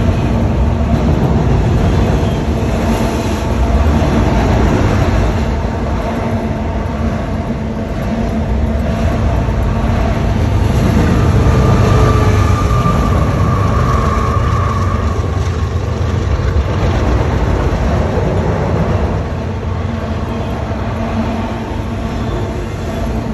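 CSX double-stack intermodal freight train passing at speed on an elevated track: a continuous heavy rumble and rattle of wheels and cars, loudest around the middle.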